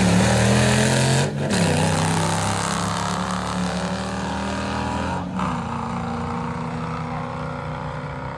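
Car engines running hard on a drag-strip pass, heard from beside the track. The sound drops out briefly about a second and a half in and again about five seconds in, then carries on more steadily and slowly fades.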